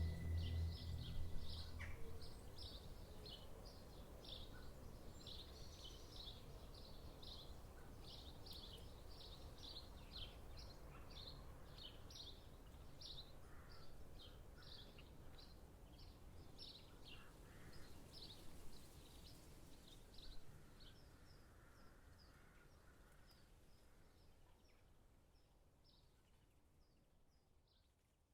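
Small birds chirping in quick repeated short notes over a soft forest background hiss, the whole bed slowly fading out to silence near the end. In the first two seconds the last sustained notes of soft ambient music die away.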